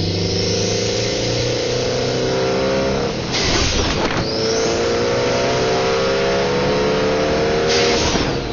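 Modified Mitsubishi Lancer Evolution's turbocharged four-cylinder pulling hard through the gears, with a whistle from the turbo above the engine. The engine note climbs, a burst of hiss cuts in at an upshift about three seconds in, then the note drops and climbs again to a second hiss near the end.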